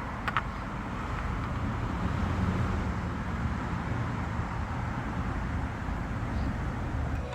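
A Honda Today kei car's small three-cylinder engine running steadily, with a couple of light clicks about a third of a second in.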